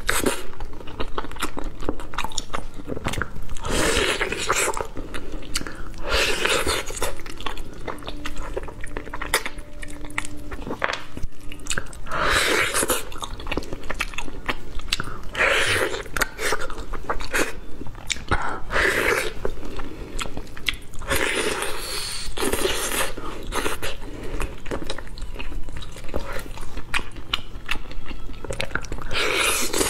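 Close-miked biting and chewing of braised pig trotters: constant small mouth clicks, with louder bites and tearing of the meat every few seconds.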